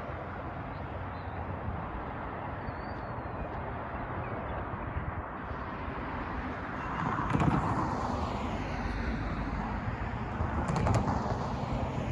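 Freight train cars rolling past with a steady rumble and rattle, getting louder about seven seconds in, with a couple of sharp wheel clanks.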